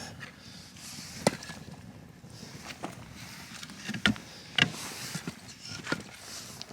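Split firewood being stacked onto a small campfire: about five separate wooden knocks as logs are set down against each other.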